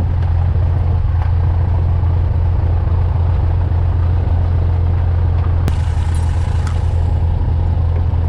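Cessna 182 Skylane's piston engine and propeller running steadily, heard as a loud, even drone inside the cockpit.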